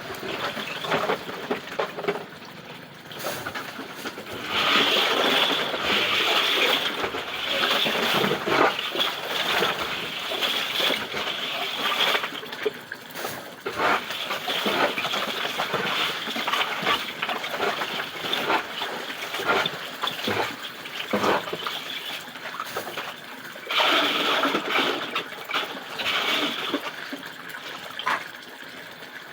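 Plastic recycling grinder running and chopping scrap plastic: a dense, irregular clatter of pieces hitting the blades and housing, growing louder for a few seconds at a time.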